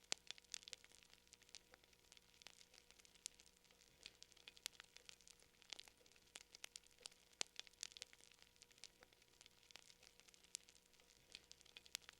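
Faint fire crackling: irregular sharp snaps and pops, several a second, over a low hiss.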